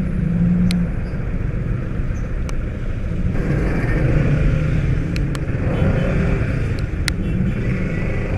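Motorcycle engine running at low speed in slow traffic, under a steady rumble of rain and road noise, muffled as if through a waterproof action-camera case. A few sharp ticks are scattered through.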